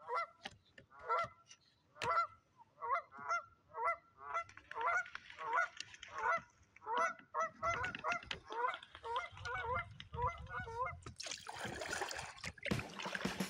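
Geese honking in a long run of calls about two a second, growing more crowded and overlapping as several birds call together, then stopping near the end; a couple of seconds of rushing noise follow.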